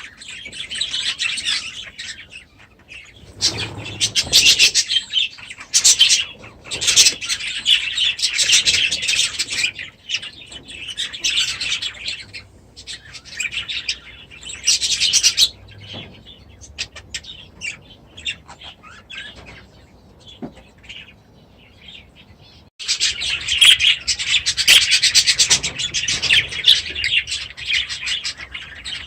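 A flock of aviary birds chattering and chirping busily, with many overlapping calls. It thins out for a few seconds past the middle, then comes back in full suddenly about 23 seconds in.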